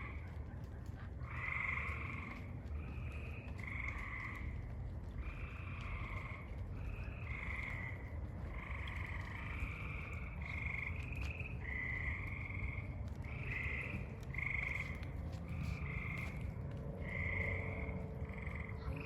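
Several frogs chirping in a chorus at a backyard pond, their high calls overlapping at slightly different pitches, about one call a second.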